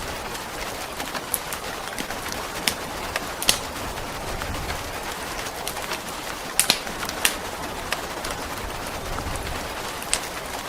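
Steady rain hiss with the sharp, irregular crackles and pops of a wood fire.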